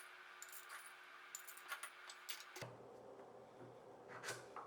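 Faint, scattered light clicks of whole coffee beans being scooped into a manual coffee grinder's hopper.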